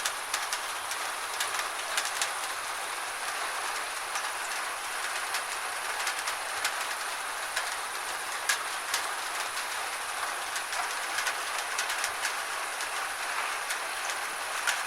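Steady gentle rain, an even hiss with scattered louder drop ticks, a few a second.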